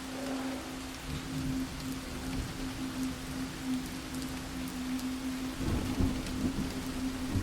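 Steady rain falling, with a low rumble of thunder beginning a little before six seconds in. A steady low hum runs underneath.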